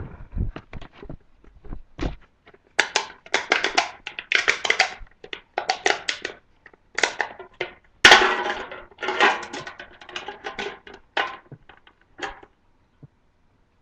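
Aluminium soda can being crinkled and knocked about: an irregular run of crackling scrapes and sharp taps, loudest in a dense burst about eight seconds in.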